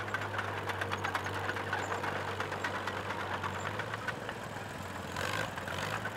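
Vintage tractor engine running steadily at idle, a constant low hum with a rapid, even clatter.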